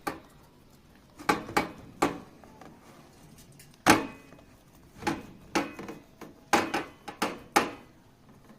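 About a dozen sharp slaps or knocks at uneven intervals, several coming in quick pairs, the loudest about four seconds in.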